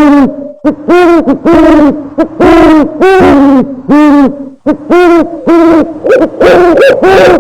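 Loon calling: a loud run of repeated arched, wavering notes, about two a second, with a steadier held note running underneath in places.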